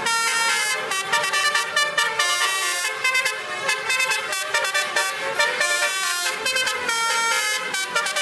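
Truck basuri horns, sets of tuned air horns, playing a fast melody of short changing notes.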